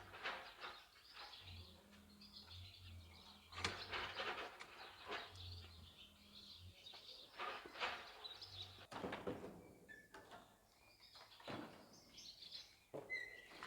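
Faint chirping and twittering of small birds against outdoor background noise.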